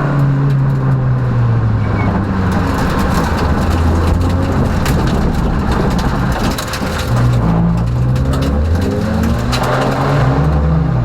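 Peugeot rally car heard from inside the cabin at speed: the engine runs under a dense rush of road noise dotted with many sharp clicks and knocks. The sound eases briefly about six and a half seconds in, then the engine pulls again.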